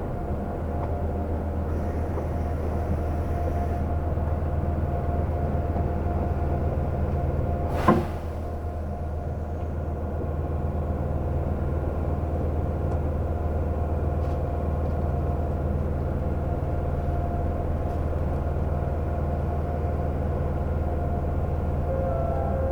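Seoul subway train running, heard from inside the car: a steady low rumble with an even hum above it, and a single sharp knock about eight seconds in.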